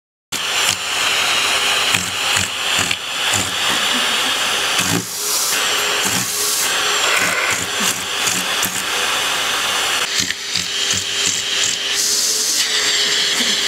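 Vacuum cleaner running steadily, with irregular knocks and bumps throughout. It cuts in suddenly just after the start.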